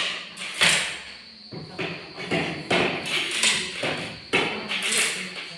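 Packaging being handled: short rustling swishes with light knocks and taps, about five in a few seconds.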